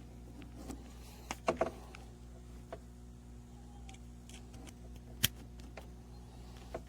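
Steady low electrical hum on the audio line, the noise the ground loop isolator is said to be creating rather than removing. A few sharp clicks, a cluster about a second and a half in and a single loud one about five seconds in.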